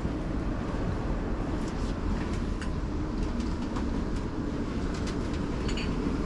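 Steady low rumble of a South Western Railway passenger train, with a few faint clicks scattered through it.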